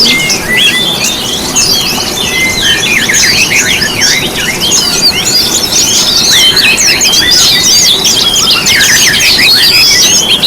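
A dense chorus of many small songbirds chirping and twittering at once, rapid overlapping calls with quick rising and falling notes, over a steady hiss. It is a birdsong lure recording of the kind played to caged songbirds to prompt them to sing.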